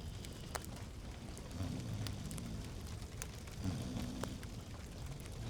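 Log fire crackling in a fireplace: a steady soft hiss with irregular sharp pops and snaps. A faint low tone comes and goes underneath.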